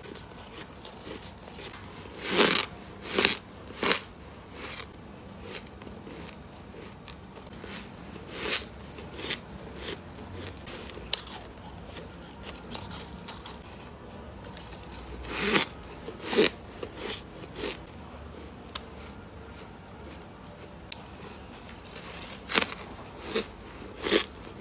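Bites into soft freezer frost, each a short crisp crunch, coming in three groups of two or three quick bites with quieter stretches of chewing between them.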